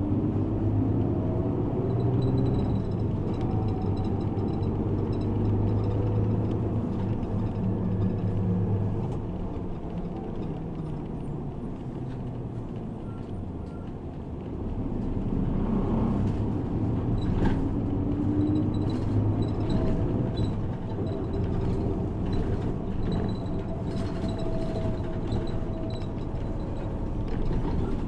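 City bus engine and road noise heard from inside the cabin while driving. The low rumble eases off about nine seconds in and builds up again after about fifteen seconds, with faint light rattles over it.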